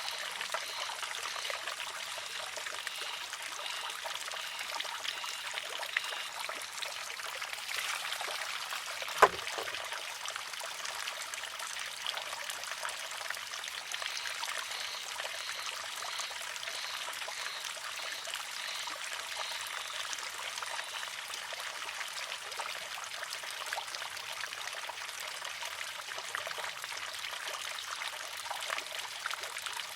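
Water trickling steadily into and off a wooden shishi-odoshi. Once, about nine seconds in, the water-filled arm tips and strikes its stone with a single sharp clack.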